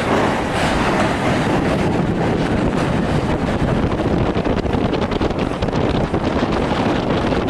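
Train running along the track: a steady rumble of wheels on rail with faint repeated clicks from the wheels over the rail joints, and wind blowing across the microphone.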